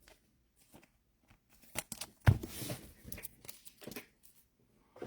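Trading cards and their packs being handled: scattered light clicks and rustles, with a knock a little over two seconds in followed by a short crinkle.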